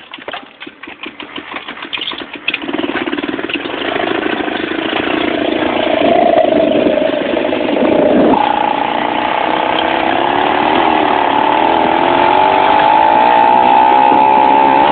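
Homelite 26cc two-stroke weedeater engine on a bicycle: a rapid clatter for the first couple of seconds, then the engine catches and runs, its pitch rising, and from about eight seconds on it holds a steady high-revving buzz as the bike goes at speed.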